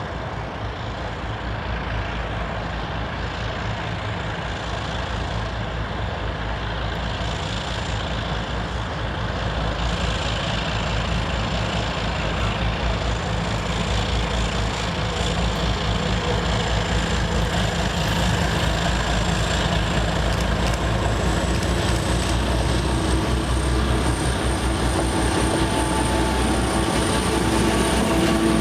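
2M62U twin-section diesel locomotive approaching, its two-stroke diesel engines running with a steady low drone and a thin high whine that rises in pitch from about two-thirds through. The sound grows steadily louder throughout.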